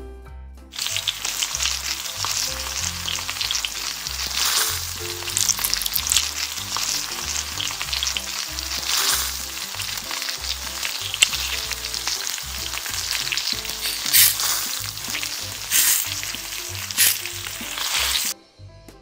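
Strawberry pancake batter sizzling as it fries in hot oil in a tiny metal pan, starting about a second in and cutting off suddenly near the end, with a metal spatula scraping the pan a few times. Soft background music plays underneath.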